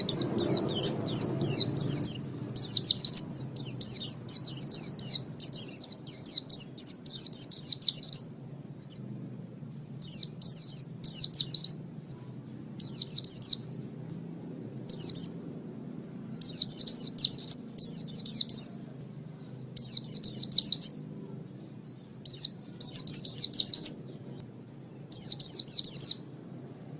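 White-eye (pleci) singing rapid, high twittering phrases, nearly unbroken for the first eight seconds, then in short bursts of about a second with pauses between, over a faint low hum.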